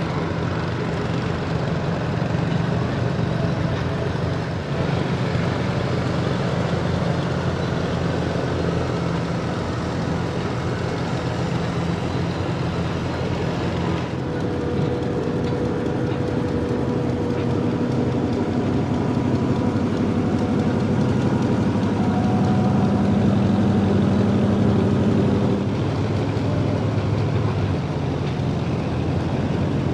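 Engine running steadily, changing to a different engine note about halfway through.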